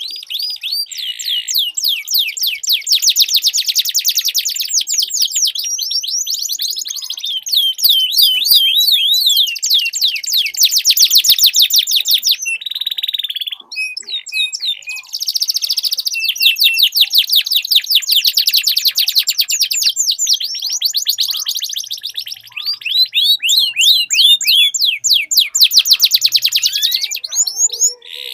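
Domestic canary song: long rolling trills of very fast repeated notes, broken by a few short pauses and changes of phrase.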